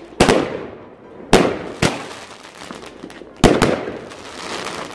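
A multi-shot consumer firework cake firing: sharp bangs of shots and bursts, singly or in quick pairs, every second or two, each trailing off. A fizzing crackle from the bursting stars comes near the end.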